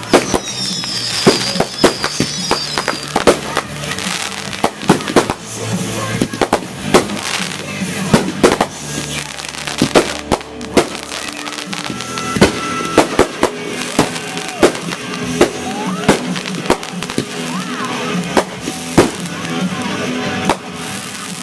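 Aerial fireworks bursting in quick succession, many sharp bangs and crackles one after another, with music playing underneath.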